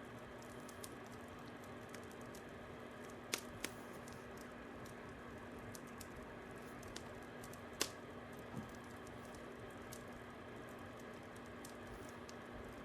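Fire crackling: faint, irregular pops and ticks over a soft steady hiss and a low hum, with the loudest pops about three and a half and eight seconds in.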